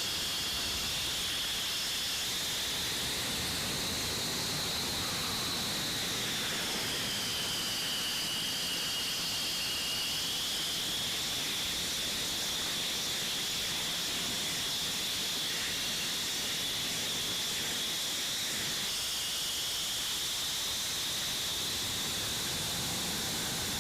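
Steady hiss with a high whine that slowly drifts up and down in pitch, from a jet engine running.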